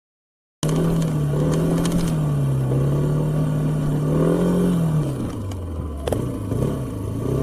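Car engine running as heard by a dash camera, its pitch wavering up and down and dropping lower about five seconds in as the revs change, with a few light clicks and knocks. It starts abruptly about half a second in, after silence.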